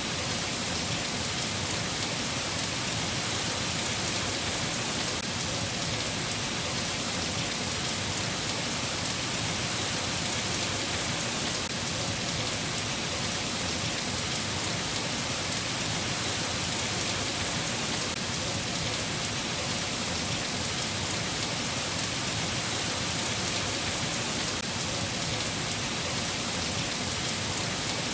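Steady rain falling: an even, unbroken hiss that stays level throughout, with no thunder.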